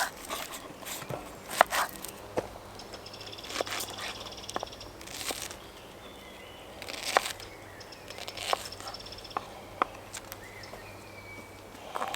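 Birds calling in woodland, with scattered sharp clicks and knocks throughout.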